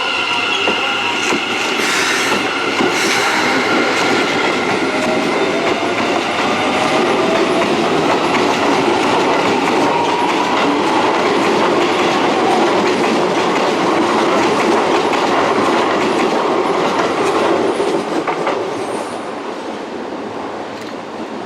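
Electric train moving through a station: steady rolling and clacking of wheels on the rails, with a motor whine that rises in pitch as the train picks up speed. The sound eases off near the end.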